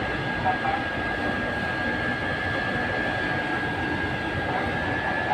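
A steady running engine with a constant high-pitched whine over a broad, even rushing noise.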